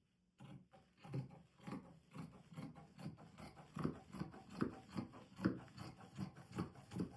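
Fabric being handled in sewing work: a quick series of short rustles and rubs, about two or three a second, starting about half a second in.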